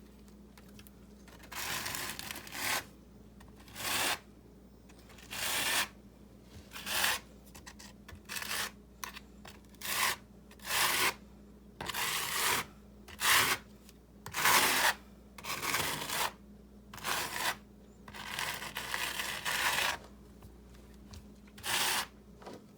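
Repeated short scraping, rubbing strokes, about fifteen in an uneven rhythm, each lasting under a second.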